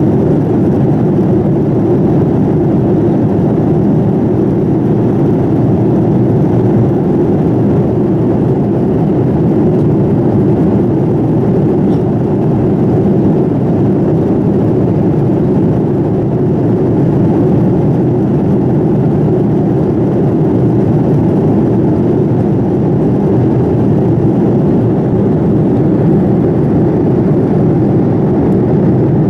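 Steady cabin noise inside a Boeing 787-9 airliner: the Rolls-Royce Trent 1000 engines and the rush of air, a deep even roar that holds level throughout.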